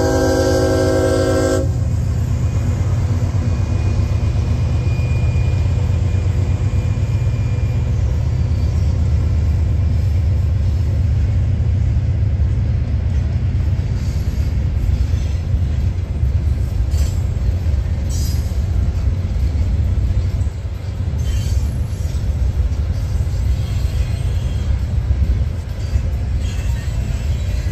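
CSX diesel freight locomotive's horn sounding a chord and cutting off about a second and a half in, then the steady low rumble of hopper cars rolling past on the rails, with scattered faint wheel clicks and squeaks.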